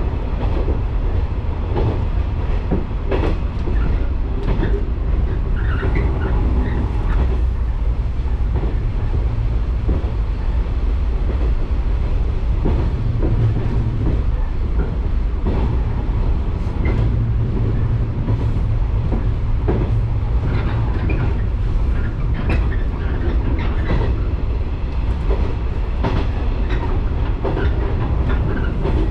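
Electric local train running on the line, heard from inside: a steady low rumble of wheels on rail, with irregular clicks and knocks from the track.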